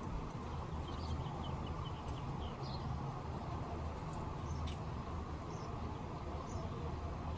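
Small birds chirping in short, scattered high calls over a steady low background rumble, with a few sharp clicks.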